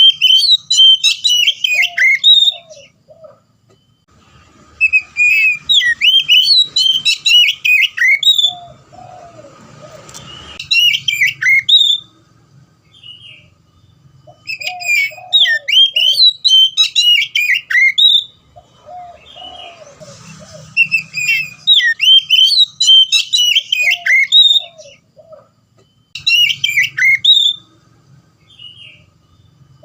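Oriental magpie-robin (kacer) in full song: loud phrases of rapid, varied whistled notes, coming in bursts of a few seconds with short pauses between them.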